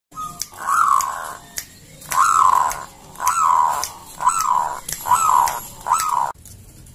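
Puter (Barbary dove) cooing in full song: six loud, rising-then-falling coos about one a second, cutting off suddenly near the end.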